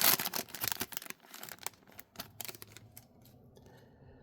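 Trading cards and their foil pack wrapper being handled: a crinkling rustle with clicks in the first second, then scattered light clicks that die away about three seconds in.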